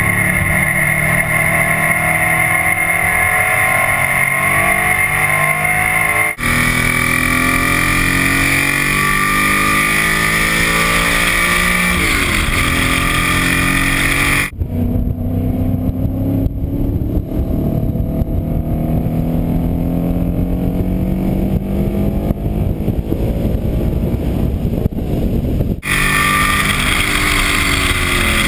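Audi 4000 quattro race car's engine under load on track, its pitch rising and falling with throttle and gear changes. The engine is down on power with two broken pistons. The sound's character changes abruptly three times as the recording switches between in-car and outside microphones.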